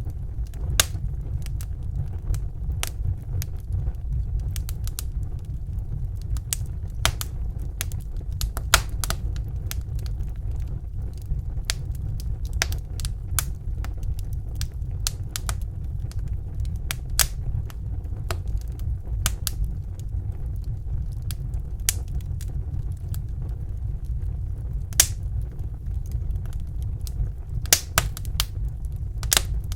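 Fire in a fireplace crackling, with irregular sharp pops and snaps, a few louder than the rest, over a steady low rumble.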